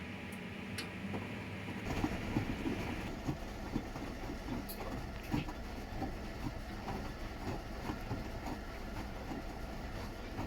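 Washing machine running a wash cycle: about two seconds in the drum starts turning, and the laundry thumps and clunks irregularly as it tumbles, over a steady low hum.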